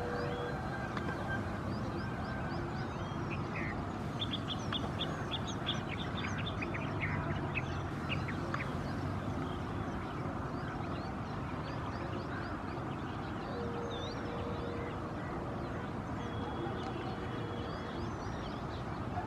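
Black-winged stilts calling: short, sharp, yelping notes, with a quick run of them about four to six seconds in and scattered single calls after. Steady background noise runs underneath.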